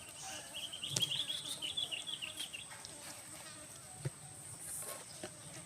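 A small falcon (alap-alap) giving a rapid, chattering series of high calls, roughly six notes a second, lasting about two and a half seconds. A faint steady high whine sits underneath, with a sharp click about a second in and another about four seconds in.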